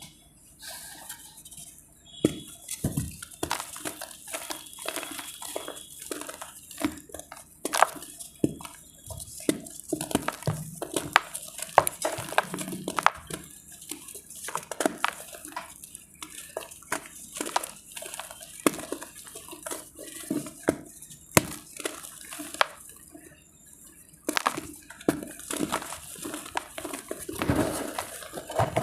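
Dry multani mitti (fuller's earth clay) crumbling and crunching: a dense, irregular run of sharp cracks and crackles as the dry pieces break apart.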